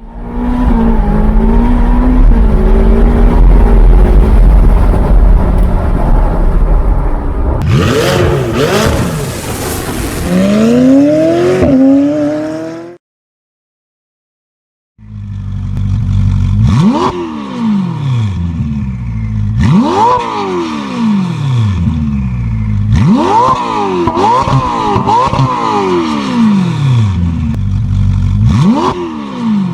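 Ferrari 488 Pista twin-turbo V8 through aftermarket Fabspeed exhausts. First it runs loud with the revs climbing in quick sweeps, then it cuts off. After about two seconds of silence comes a series of sharp rev blips, each rising fast and falling back, roughly every three seconds.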